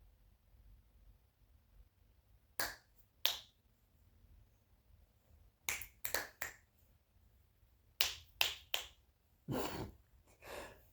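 Scattered sharp clicks, some single and some in quick clusters of three or four, with near silence between them.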